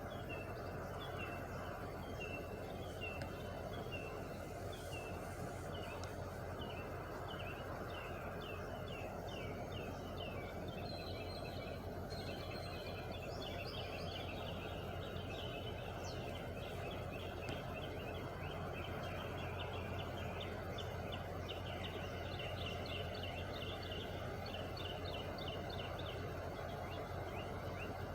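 Steady low hum of an idling truck engine, with birds chirping over it in quick runs of short notes throughout.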